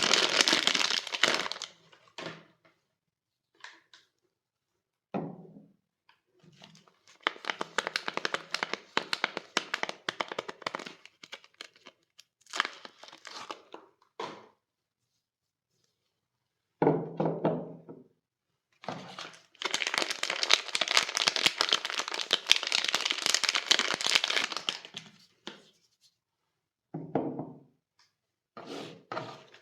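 Soap packaging being unwrapped by hand: wrapping crinkling and tearing in several bursts with silent pauses between them, and a few soft thunks as items are handled or set down.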